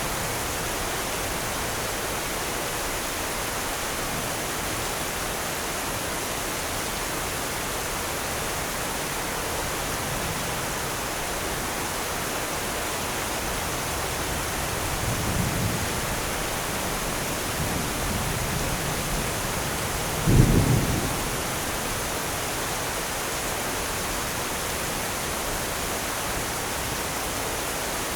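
Steady rain falling, a continuous hiss, with thunder: a low rumble swells about halfway through, and a louder, sharper thunderclap comes about two-thirds of the way through, then fades.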